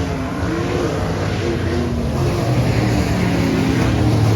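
Dirt-track race car engines running together on the oval, their pitch rising and falling as the cars accelerate and back off.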